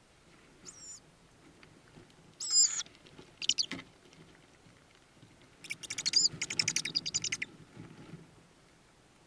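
Tawny owl chicks in a nest box calling with thin, high-pitched cheeps: a few single short calls, then a fast run of about a dozen near the middle, with soft rustling as the birds shift about.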